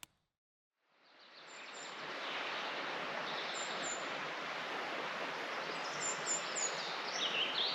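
Outdoor ambience fading in after a moment of silence: a steady wash of noise with several short, high bird chirps and a lower bird call near the end.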